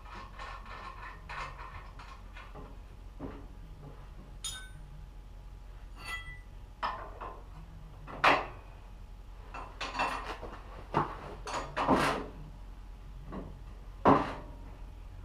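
Metal parts and hand tools being handled: irregular clinks and clanks, with two short ringing metallic tings about a third of the way in and louder clanks in the second half.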